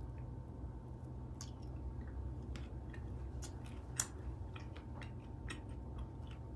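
A person chewing a piece of chocolate with fruit in it, close to the microphone: small irregular clicky mouth sounds, one sharper click about four seconds in, over a steady low hum.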